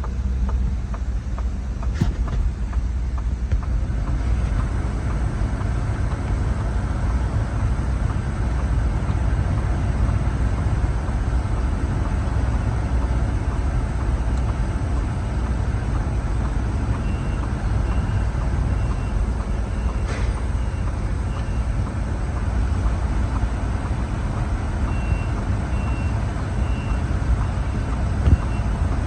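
A steady low engine rumble, with a vehicle's backup alarm beeping about once a second in two short runs in the second half.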